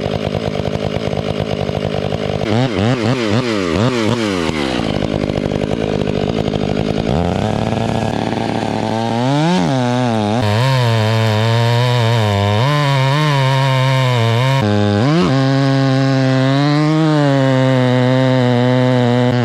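Stihl two-stroke chainsaw cutting into a large trunk for a felling face cut. The engine revs up and down for the first few seconds, then runs at high revs in the cut, its pitch dipping and recovering again and again as the bar loads up in the wood.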